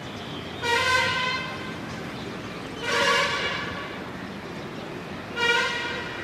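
A vehicle horn honking three times, each toot under a second long and at a steady pitch, over a steady background hum.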